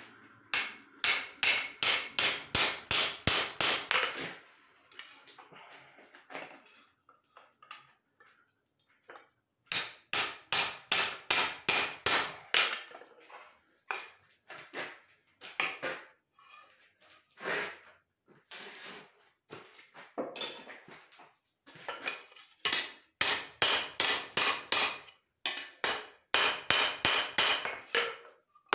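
Hand hammer striking leaf-spring steel on an anvil: runs of quick, even blows, about four a second, broken by short pauses, three main runs in all.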